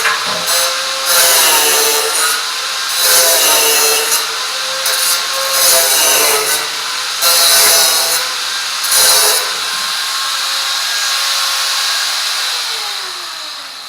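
Electric power tool cutting in a series of bursts of about a second each, its motor note sagging under load between them. Near the end it is released and spins down with a falling pitch.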